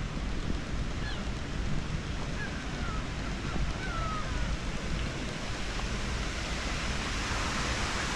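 Steady outdoor wind and water noise, with a few faint, short, high bird calls in the first half.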